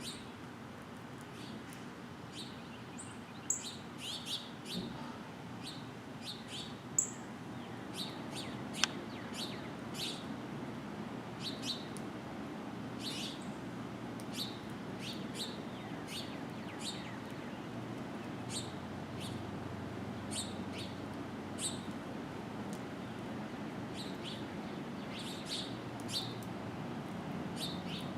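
Songbirds chirping: many short, separate chirps scattered throughout, over a steady low background hum.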